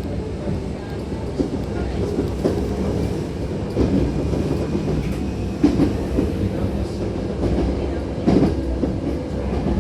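Hankyu Takarazuka Line electric train running, a steady rumble of wheels on rails with irregular knocks from the track, the strongest about four, six and eight seconds in.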